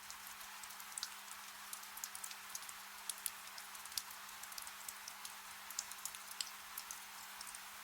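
Soft rain falling steadily, with many individual drops ticking sharply close by. A faint steady low hum runs underneath.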